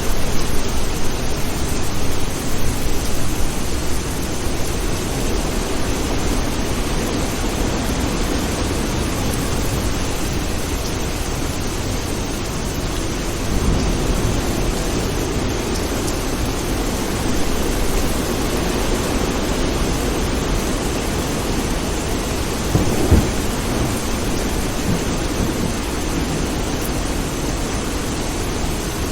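Steady heavy rain with low rumbles of thunder, swelling about halfway through and again with a sharper crack near 23 s... the rumble builds about halfway through and again later.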